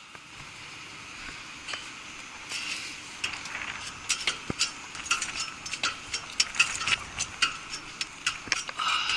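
A faint steady hiss, then from a few seconds in a run of irregular light clicks and taps, like metal tools or hardware being handled.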